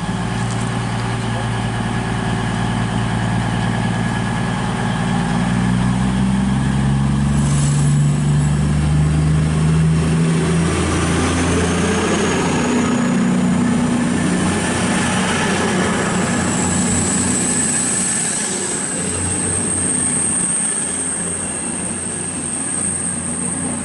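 A train running through the station. Its engine note steps up in pitch over the first ten seconds, then gives way to wheel and rail rumble, with a steady high whine in the second half.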